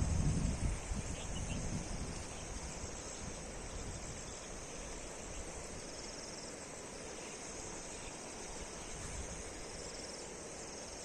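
Steady, high-pitched chirring of crickets or similar insects. A low rumble in the first two seconds dies away.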